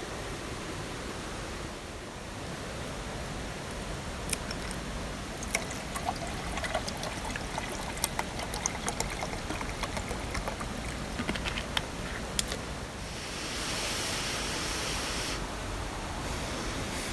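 Steady rushing water noise with scattered sharp ticks and clicks through the middle, then a louder hiss for a couple of seconds near the end.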